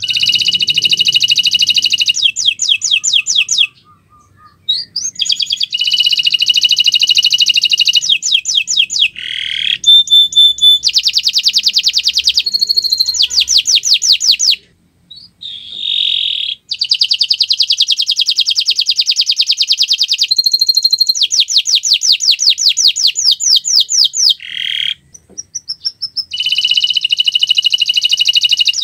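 Domestic canary singing long, loud phrases of rapid trills and rolls, with three short pauses between phrases.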